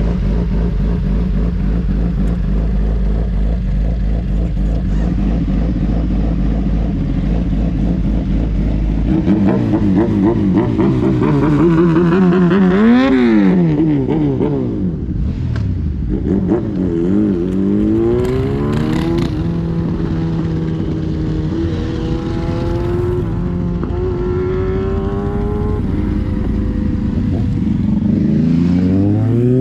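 Superbike engine running under way: steady at first, then revving up steeply to a peak about 13 seconds in, dropping back, climbing again and holding a steady speed, with another rise in revs near the end.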